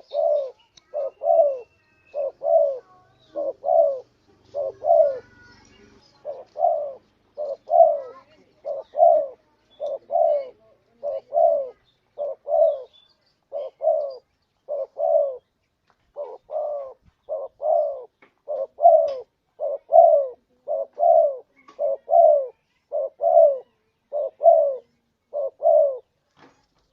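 Spotted dove (tekukur) cooing, a wild dove lure-call recording: a long, unbroken run of low coo notes, roughly one a second and sometimes doubled. Faint chirps of other small birds sound now and then behind it.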